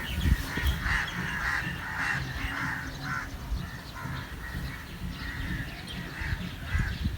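Birds calling with a string of short, harsh repeated calls, over a low steady rumble.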